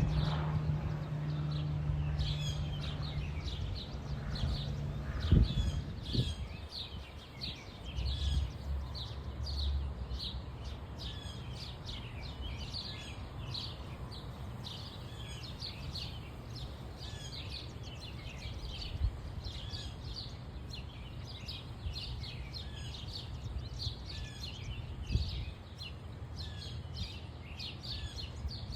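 Backyard songbirds chirping with short, rapid, high calls throughout, over a steady low background rumble. Two brief knocks sound, one about five seconds in and one near the end.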